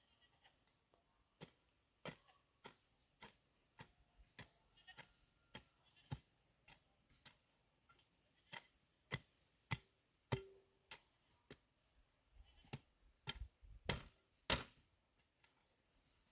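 A series of sharp knocks or taps, about two a second at first, then irregular, with the loudest strokes near the end.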